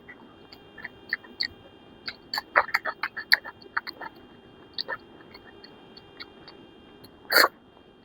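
Close-miked eating sounds: chewing and wet lip and mouth smacks, many short irregular clicks, with one louder sound about seven seconds in.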